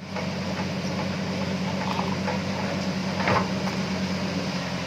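Truck engine running steadily with a low, even hum, and a brief louder rattle or knock a little over three seconds in.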